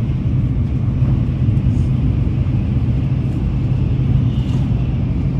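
Steady low rumble of a Nozomi Shinkansen bullet train running at speed, heard from inside the passenger car.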